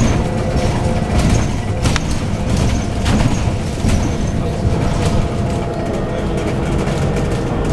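Inside a Scania N280UD double-decker bus on the move: the Scania OC09 9.0-litre biogas engine and ZF Ecolife six-speed automatic gearbox give a steady low rumble with a faint whine. Sharp rattles and knocks from the bus body come through now and then.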